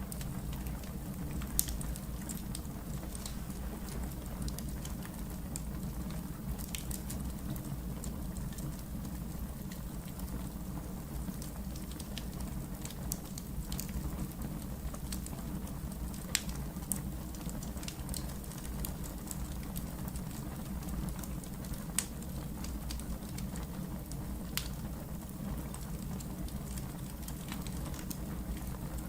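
Wood fire crackling steadily over a low rumble of flames, with scattered sharp pops, a few louder ones standing out.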